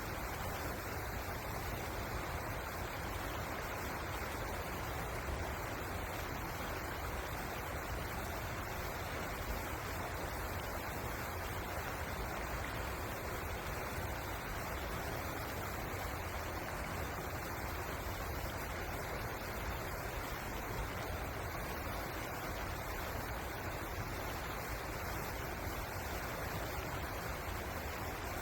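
River water flowing, a steady rushing with a low rumble underneath.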